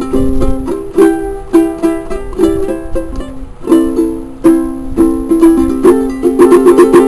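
Solo ukulele strumming chords in a steady rhythm, each strum ringing on, with a quick run of rapid strums near the end.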